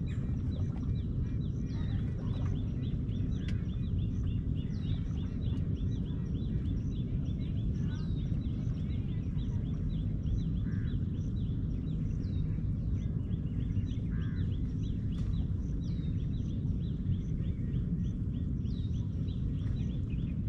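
Birds chirping and calling over and over, with quick falling chirps, above a steady low rumble.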